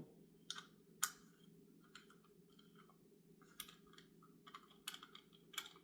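Faint, irregular light clicks and taps of small metal parts and a socket being handled while a part is fitted back into an HEI distributor, over a low steady hum.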